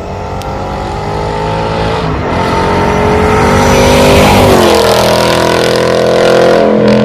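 Ford Mustang engine accelerating hard, its pitch climbing and getting louder, dropping about four and a half seconds in and climbing again, as in a shift to the next gear.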